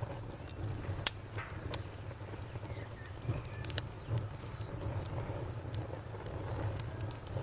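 Wood fire crackling, with scattered sharp pops, the loudest about a second in, over a low steady rumble. A cricket chirps steadily in the background, several chirps a second.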